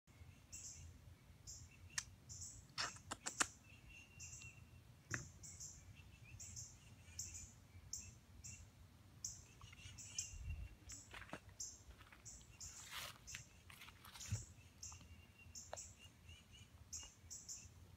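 Small birds chirping, short high chirps repeating about twice a second, with a few sharp clicks and taps here and there.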